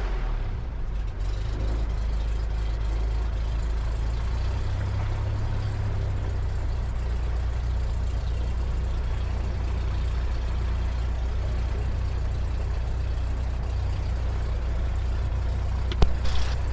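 Cessna 172's piston engine idling steadily just after start-up, a low, even hum. A single sharp click comes near the end.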